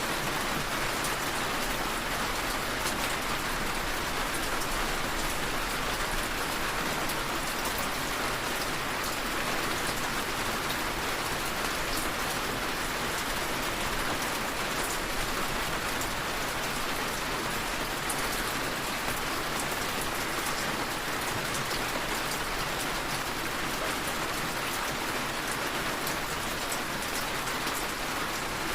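Steady rainfall, an even hiss of rain with fine scattered drop ticks, unchanging in level.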